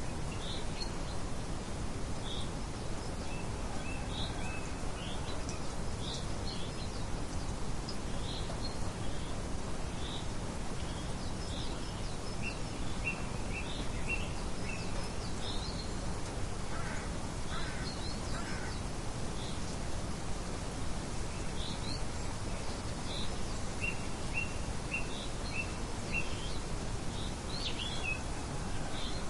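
Birds calling in short, high chirps, scattered throughout and sometimes in quick runs of several notes, over a steady outdoor background noise.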